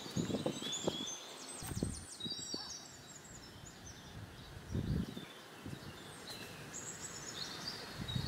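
Several birds chirping and singing in short, high phrases, with a few soft low rustling thuds now and then.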